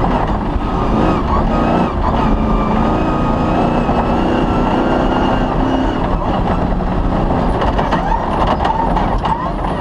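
Off-road rally car engine running hard at speed, its pitch rising and falling, with scattered knocks and rattles toward the end.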